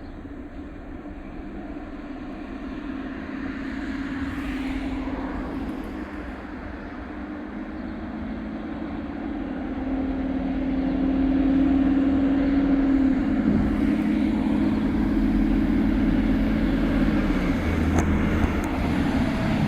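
Recycling truck's engine running and growing steadily louder as it draws near, with a drop in engine pitch about thirteen seconds in.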